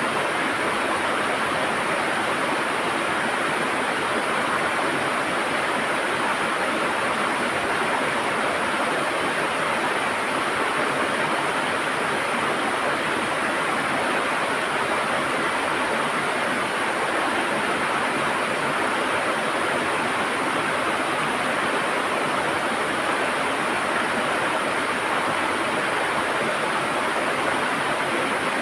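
River water gurgling and rushing over stones, a steady even flow of water noise.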